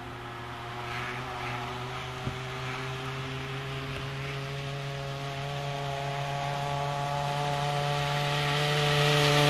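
Small two-stroke hedge-cutter engine fitted to a scooter, running steadily and getting gradually louder as its pitch rises slightly.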